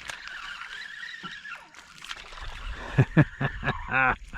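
Hooked ladyfish splashing and thrashing beside a kayak, with two sharp knocks about three seconds in and a short vocal exclamation near the end.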